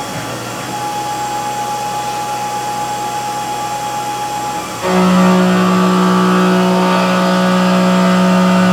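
CNC milling machine spindle and end mill running a roughing pass. Its steady tone changes abruptly about five seconds in to a louder, lower, steady whine with overtones as the cut changes.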